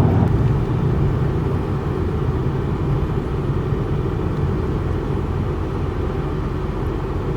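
Steady low road and engine rumble inside a diesel pickup truck's cab while driving.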